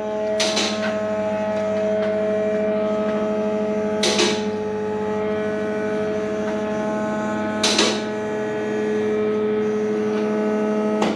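A steady mechanical hum at one constant pitch, broken by three short hissing bursts about three and a half seconds apart; the hum cuts off suddenly at the end.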